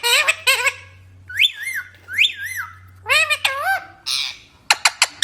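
Green parrots calling: a run of short squawks and whistled calls that rise and fall in pitch, several of them within a few seconds. A few sharp clicks come near the end.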